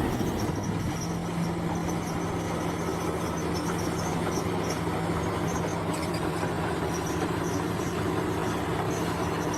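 Bulldozer's diesel engine running steadily with a held low hum that shifts up slightly in pitch about a second in, with faint high chirps over it.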